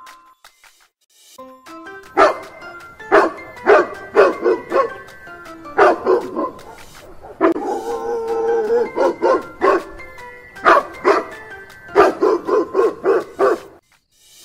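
A dog barking repeatedly in quick runs of two to five barks, with a longer wavering call about halfway through.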